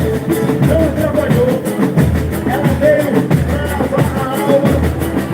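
Live boi-bumbá toada: a voice singing over a steady beat of deep drums.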